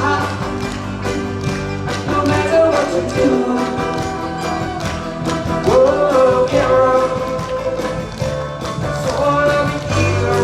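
Live band playing an upbeat oldies pop song, with a steady drum beat under a sustained melody line.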